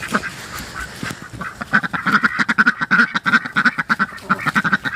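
A flock of domestic ducks quacking, a dense chatter of short quacks in quick succession, busiest from about two seconds in.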